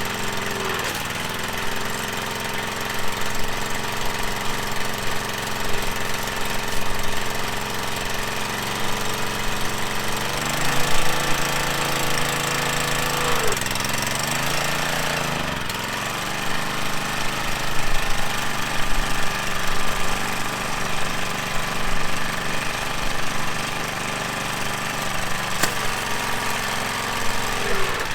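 Small gasoline engine of a Coleman Powermate pressure washer running with its newly fitted pump, its speed dipping briefly and recovering a few times: near the start, around a third to halfway in, and near the end.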